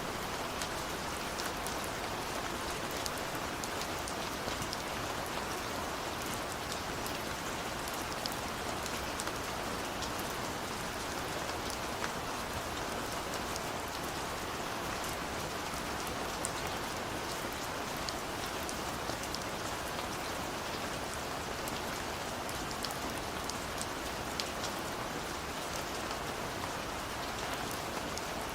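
Steady rain falling on a window, a constant hiss with many scattered small drop ticks.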